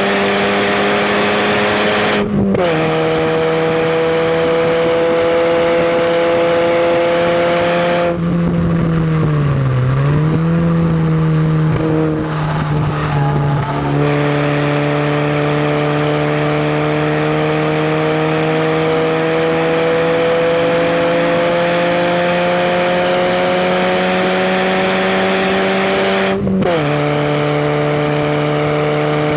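Fiat barchetta's 1.8-litre four-cylinder engine under hard acceleration, heard from inside the open cockpit with wind rush. The revs climb steadily, with a quick upshift about two seconds in and another near the end. Midway the revs dip and pick up again unevenly for a few seconds before climbing once more.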